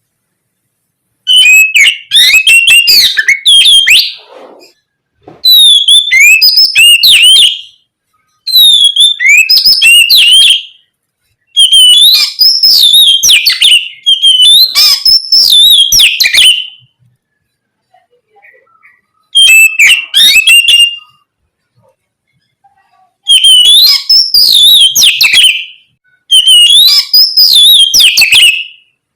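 Oriental magpie-robin (kacer) singing loud, varied whistled song phrases with quick rising and falling notes, each two to three seconds long, about eight phrases separated by short pauses.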